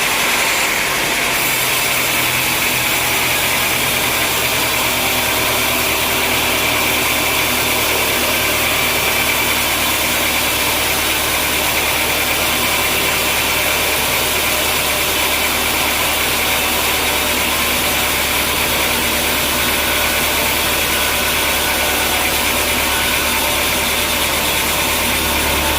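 Sawmill machinery running steadily: a constant mechanical drone with a low hum and a steady high whine, unchanging throughout.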